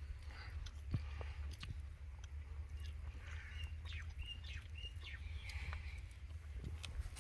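People eating roast chicken with their hands: faint chewing with small clicks and smacks of tearing meat. A bird chirps a few short notes in the background about halfway through.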